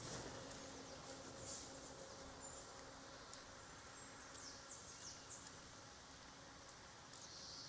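Faint bird chirps: short, high notes that slide downward, scattered about once a second, over a low steady background hum.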